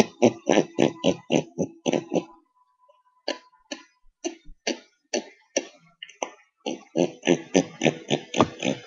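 A person making weird noises with the mouth and throat: a fast string of short, guttural clicking grunts, about four a second, that thins to scattered single ones midway and speeds up again near the end.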